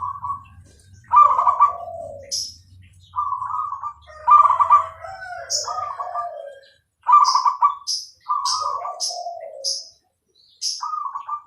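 Zebra dove (perkutut) cooing in a series of rhythmic phrases, each a run of staccato notes stepping down in pitch. Short high chirps from another small bird sound between the phrases, several in quick succession past the middle.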